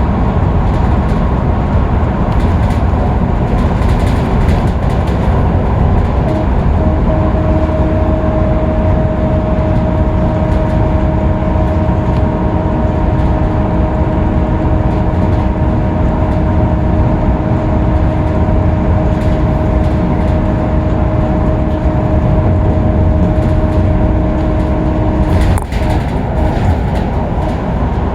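Scania K310UB city bus cruising at freeway speed, heard from on board: a steady diesel drone with road and tyre noise. A steady whine joins about six seconds in and cuts off suddenly near the end.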